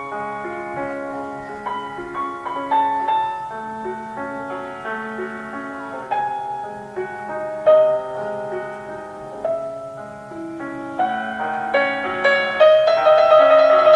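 Classical piano music: a melody over held chords, growing louder near the end.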